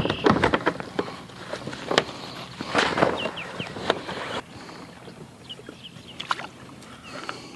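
Knocking and clattering against a kayak hull, with some water sloshing, as a freshly shot carp and bowfishing gear are handled aboard. Busiest over the first four seconds or so, then fewer, scattered knocks.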